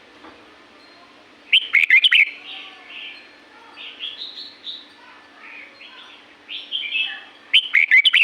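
Red-whiskered bulbul singing: two loud, quick, warbling phrases about six seconds apart, with softer notes between them.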